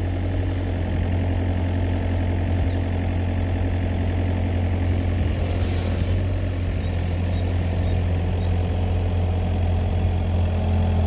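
A heavy diesel engine running steadily at idle, with a short hiss about six seconds in.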